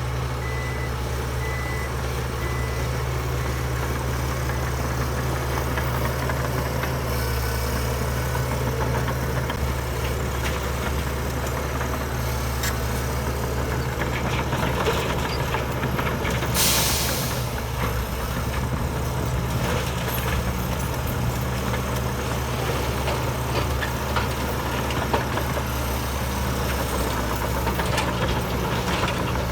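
Heavy diesel engines of a bulldozer and dump truck running steadily. A reversing alarm beeps in the first few seconds, and a short burst of air hiss, like an air brake releasing, comes about 17 seconds in.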